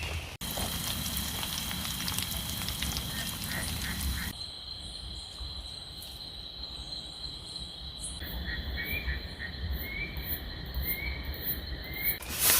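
Night forest chorus: a steady high insect drone with frogs calling. A hiss of rain fills the first few seconds. Near the end there is a run of short, rising calls repeated about once a second.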